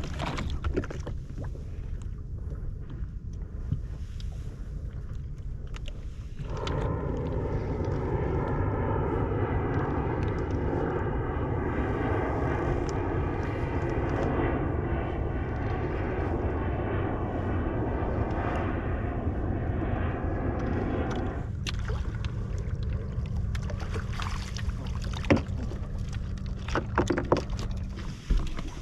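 Sea-Doo jet ski engine idling low, then opening up about six seconds in and running steadily at speed for about fifteen seconds, a drone of several even tones. It then drops back to a low idle hum.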